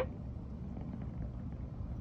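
American Shorthair cat purring steadily, a low continuous rumble; a short sharp click right at the start.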